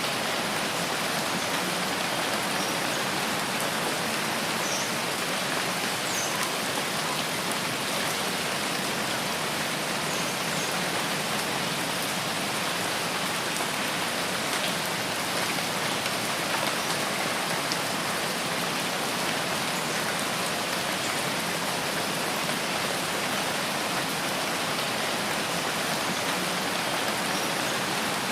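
Steady rain falling, an even hiss with no let-up, with a few faint short high notes now and then.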